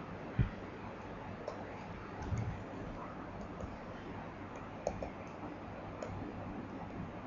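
Faint scattered clicks and taps of writing an equation by hand over quiet room tone. A soft knock about half a second in is the loudest, and a few smaller taps follow.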